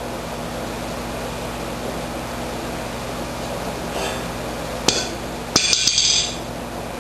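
Hammer blows on the bent steel first-stage auger flight of a John Deere 1032 snowblower as it is knocked back straight: one sharp strike about five seconds in, then a quick cluster of ringing metallic hits. A steady hum runs underneath.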